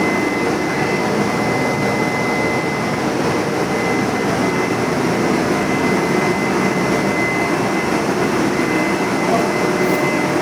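Steady mechanical drone, like fans or blowers running, with a thin high whine held on one pitch throughout.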